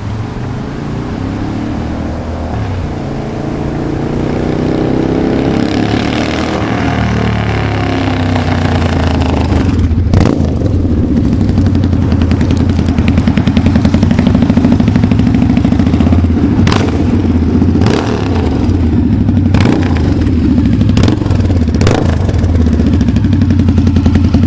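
A Harley-Davidson V-Rod V-twin running through a Toxic Double Down 2-into-2 aftermarket exhaust as the bike is ridden. The engine note rises and falls over the first several seconds, then settles into a steady, loud rumble. From about halfway through it is punctuated by a handful of sharp cracks a second or so apart.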